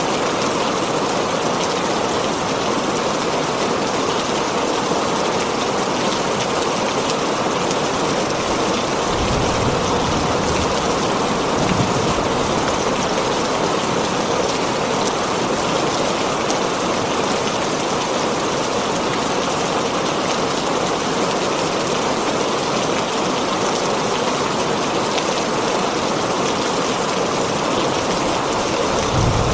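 Heavy rain drumming steadily on a tin roof, an even hiss of drops, with brief low rumbles about nine seconds in and again near twelve seconds.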